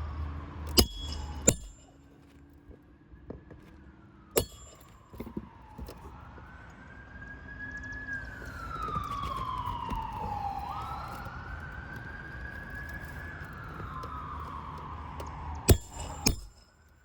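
Sharp hammer blows on a steel roof snake tool, driving roofing nails under shingles: two near the start, one at about four seconds, and two near the end. In between, a distant emergency-vehicle siren wails, slowly rising and falling in pitch.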